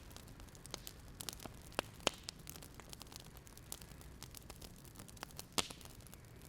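Wood fire crackling: faint, irregular pops and snaps over a low steady hiss, with sharper pops about two seconds in and again near the end.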